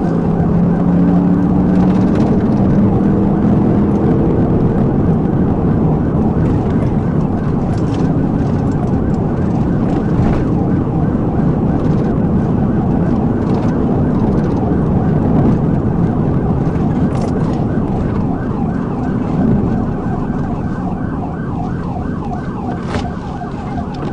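Police car siren cycling rapidly over loud engine and road noise from the patrol car during a pursuit.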